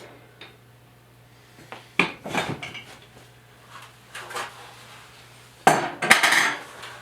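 Metal tools clinking and clattering in a few short bursts, the loudest cluster near the end.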